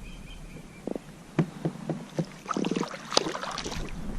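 Scattered knocks and clicks on a kayak, typical of a small fish and tackle being handled on board. About two and a half seconds in there is a short low hum.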